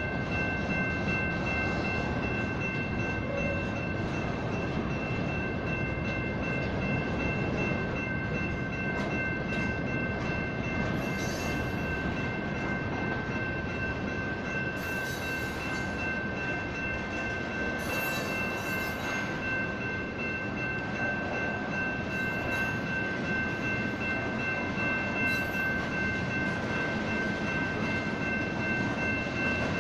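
Railroad crossing electronic bells (General Signals Type 1 and Type 2) ringing steadily as a freight train rumbles through the crossing. Several short bursts of high hiss come through.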